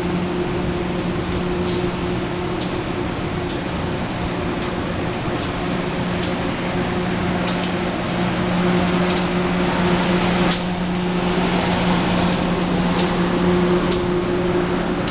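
Locomotive idling: a steady low hum over a constant hiss, with scattered sharp clicks.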